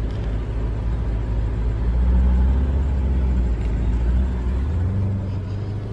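Low, steady vehicle rumble with a faint hum whose pitch shifts about five seconds in.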